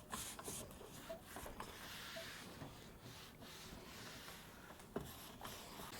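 Faint rubbing of a cleaning cloth wiped over the microwave's front panel, with a few light knocks.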